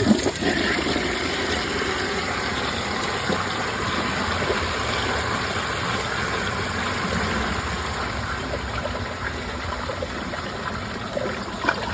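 Glacier Bay Power Flush toilet flushing from an overfilled mid-height tank with its vacuum-assist hole plugged: water rushes in suddenly at the start and runs as a steady gush throughout.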